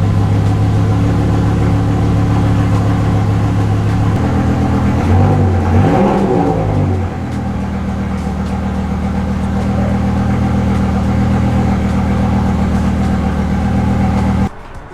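BMW S85 V10 engine idling with a misfire, blipped once about five seconds in and settling back to idle; the misfire has followed the swapped ignition coil, so the coil is bad. The sound cuts off just before the end.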